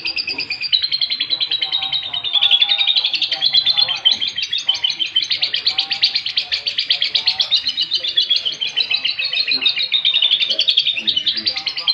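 Domestic canary singing a continuous, rapid run of chirps and trills that uses lovebird-style calls learned into its song.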